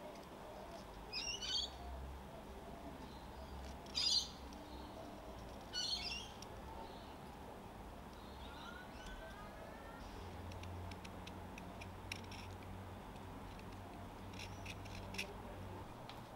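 A bird squawking three times, a couple of seconds apart, with faint clicks of a small carving knife cutting wood in the later seconds.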